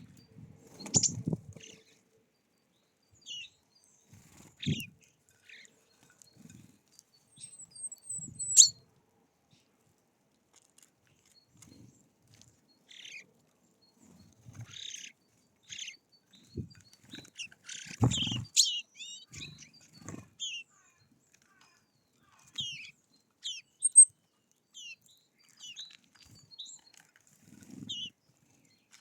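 Small songbirds at a feeder: scattered short high chirps and call notes, a few sharp and loud. Among them are dull knocks and wing flutters as birds land and peck, the largest knock about two-thirds of the way through.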